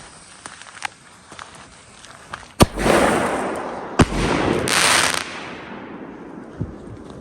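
Two sharp firework bangs about a second and a half apart, each followed by about a second of dense crackling that fades away, the second crackle the louder.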